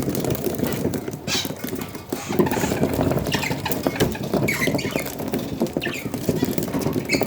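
Budgies moving about: continual scratching, rustling and small pecking clicks, with a few short high chirps scattered through.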